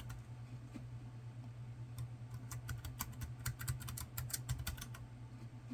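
Typing on a computer keyboard: irregular key clicks, coming in a quick dense run in the middle, over a low steady hum.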